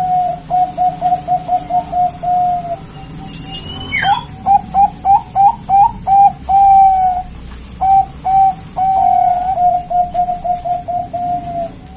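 Zebra dove (perkutut) cooing: rapid runs of short staccato coo notes on one pitch, broken in the middle by a few longer drawn coos and notes that flick upward. A brief rising whistle sounds just before the middle.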